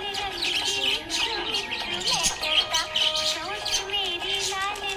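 Budgerigars chirping and warbling in quick, continuous chatter, over background music.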